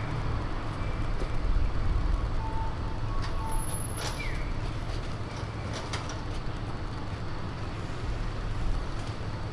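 City street traffic: motor vehicles running past with a steady low rumble, with a few faint short chirps and clicks over it.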